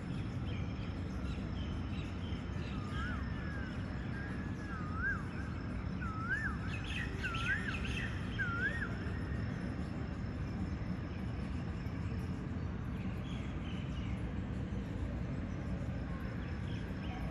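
A bird giving a run of five or six short whistled calls, each a quick rising-and-falling loop, about one a second, over a steady low rumble of outdoor background noise.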